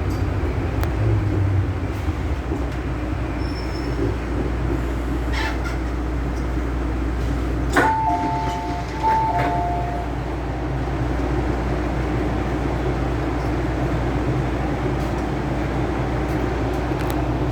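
MTR M-Train electric multiple unit running on the line: a steady rumble of wheels on rail and traction noise. About eight seconds in, two short two-note tones sound one after the other.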